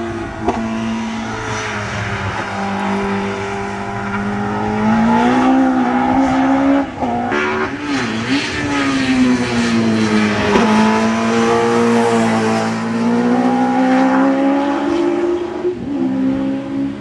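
Westfield Megabusa's Suzuki Hayabusa motorcycle four-cylinder engine heard from trackside as the car laps the circuit. The engine note climbs under acceleration and drops sharply at gear changes several times.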